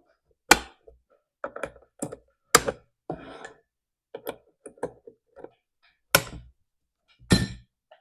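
Irregular sharp knocks, clicks and thunks of chainsaw parts being handled and fitted together on a workbench during reassembly, with a short scraping rustle about three seconds in.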